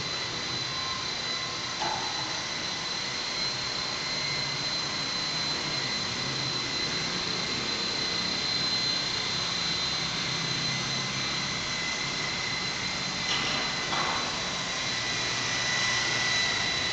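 Radio-controlled model helicopter in flight: its motor and rotor give a steady high whine over a rushing hiss.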